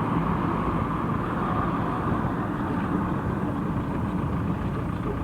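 Steady engine and road noise heard from inside a moving vehicle, a constant low rumble with no separate events.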